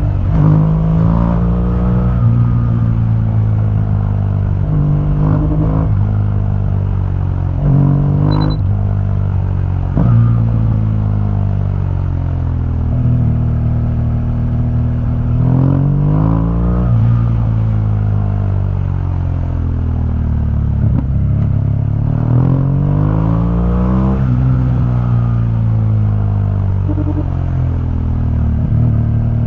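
BMW R1200GS flat-twin boxer engine through its stock exhaust, its revs climbing and dropping again and again as the bike accelerates through the gears and slows, with a steady stretch in the middle.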